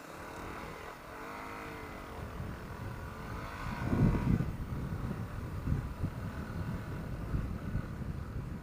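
Yamaha WR250R's single-cylinder four-stroke engine running and revving, its pitch rising early on, with a louder low rumble about four seconds in.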